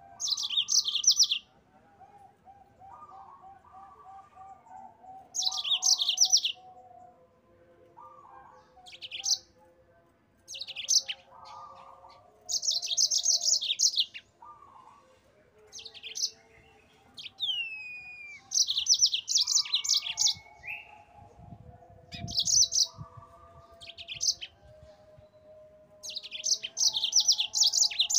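Yellow-fronted canary (Mozambique canary) singing in repeated bursts of rapid, high-pitched trills, each a second or two long, coming every few seconds. A fainter, lower warbling bird sound runs underneath.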